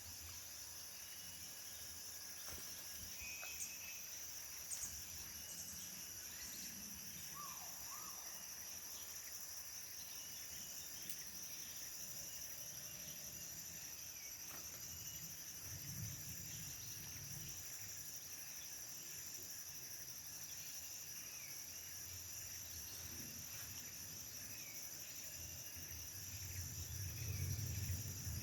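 Forest insect chorus, a steady high-pitched drone, with a few short bird chirps scattered through it. A low rumble comes in near the end.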